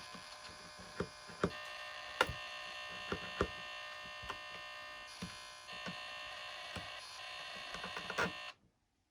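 Steady electronic whine with many tones from a powered-up RC plane's electronics on the bench, with scattered light clicks and taps of handling; it cuts off suddenly near the end.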